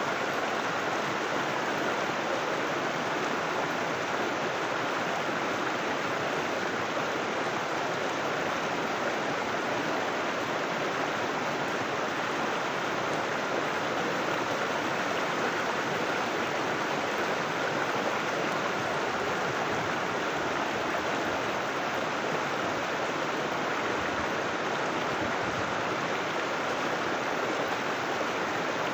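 River water flowing over rocks: a steady, unbroken rush of moving water.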